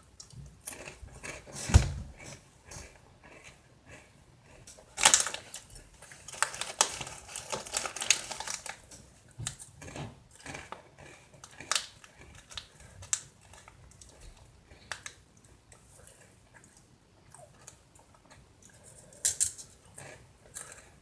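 Someone eating Cheez-It Atomic Cheddar crackers: irregular crisp crunching and crackling, with louder crunches about two and five seconds in.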